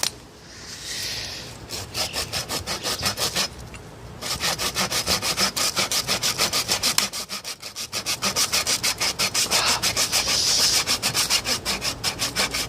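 Hand saw cutting through a wooden log in quick, even back-and-forth strokes, stopping briefly about three and a half seconds in and then sawing steadily on.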